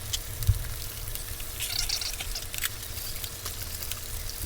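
Food frying in bacon grease on a hot griddle: sizzling and crackling with scattered pops and drips. There is a single low thump about half a second in.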